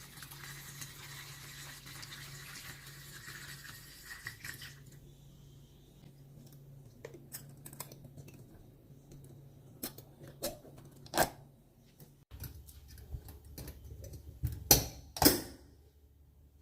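Kitchen handling sounds. A steady hiss for about the first five seconds is followed by scattered clicks and knocks as things are handled and set down, with two loud knocks near the end, over a low steady hum.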